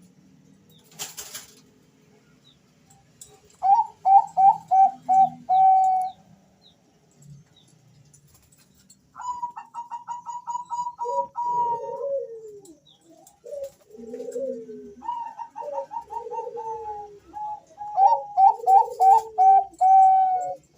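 Two male zebra doves (Bangkok perkutut) calling back and forth. Each bout is a run of quick, clipped higher notes, joined in the second half by a second bird's lower, falling coos that overlap them. There is a short rustle about a second in.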